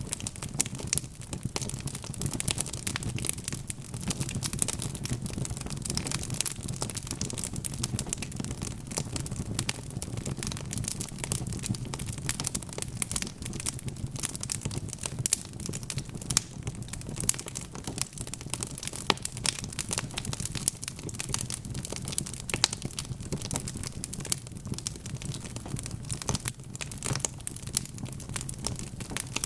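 Wood fire crackling steadily, with dense small pops and snaps over a low rumble.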